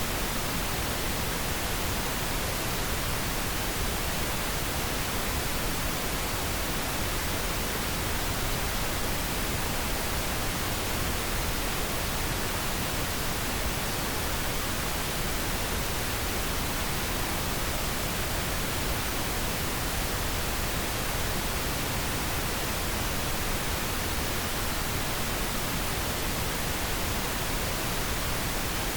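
Steady pink noise: an even, unchanging hiss across the whole range, without any other sound.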